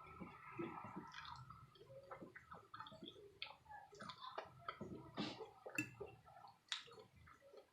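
A person chewing creamy shrimp alfredo: irregular small mouth clicks and smacks, several a second, faint.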